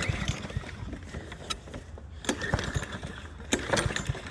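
Cub Cadet push mower being pull-started cold: the recoil starter is yanked and the engine turns over without firing, with a few sharp clacks along the way.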